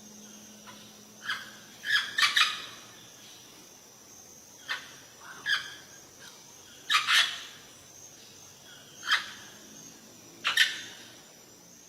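A bird calling: short, sharp calls, single or in quick pairs and triplets, coming every couple of seconds.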